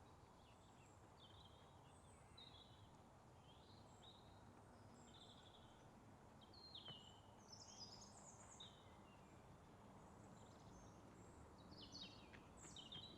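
Faint outdoor ambience of small birds chirping in short, scattered calls over a low steady background hiss, the calls clustering more thickly in the middle and near the end.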